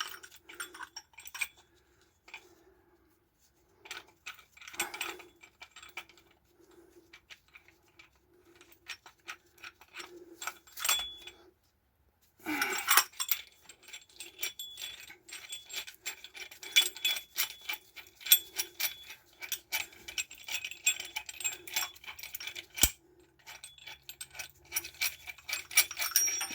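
Metal tools and small metal tool pieces being handled, clinking and rattling in a busy run of short clicks and jangles, thickest in the second half. A faint low tone pulses evenly underneath.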